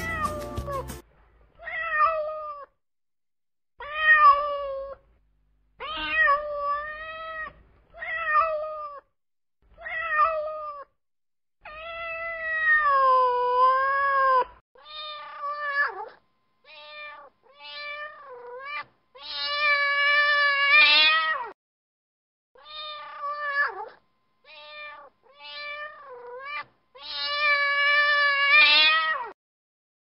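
Domestic cat meowing over and over: a string of separate meows with short silent gaps between them. Most are short, and a few are long and drawn out.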